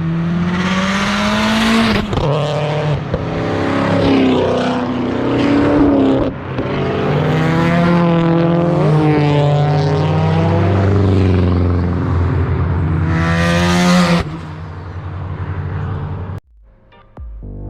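Car engines revving and accelerating, their pitch rising and falling over and over, with louder rushes of exhaust noise near the start and again near the end. Close to the end the engine sound cuts off and electronic music with a beat begins.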